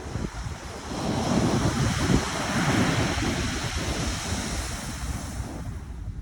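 Pacific Ocean surf: a wave breaks and washes in, swelling about a second in and easing off near the end, with wind buffeting the microphone.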